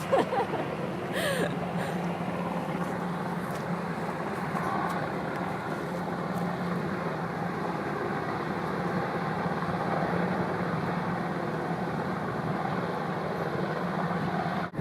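Firefighting helicopter running over the lake with a steady drone of rotor and engine.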